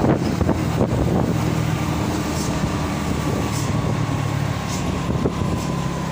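Vehicle engine running steadily while driving, with a faint thin whine that drifts slightly lower in pitch.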